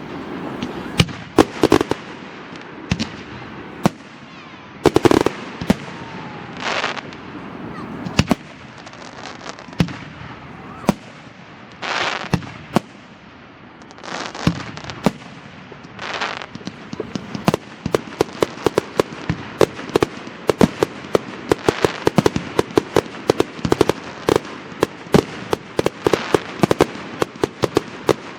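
Fireworks display: scattered sharp bangs and several hissing bursts, then, a little past halfway, a dense rapid crackle of many small pops.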